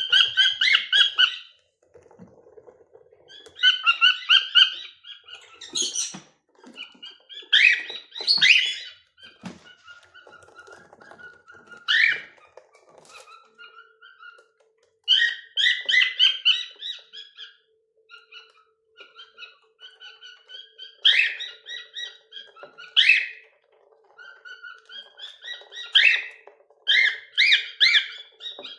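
Pet cockatiels whistling and chirping in short bursts of calls, phrase after phrase with pauses between, mixed with a few knocks. A faint steady hum comes in about a third of the way through.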